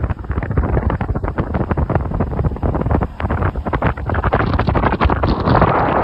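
Wind buffeting the microphone: a loud, gusty rumbling rush that swells a little toward the end.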